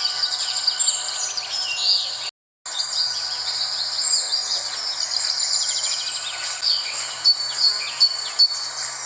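Mixed chorus of birds chirping and trilling over a steady insect drone, with a few louder chirps near the end. The sound drops out completely for a moment a little over two seconds in.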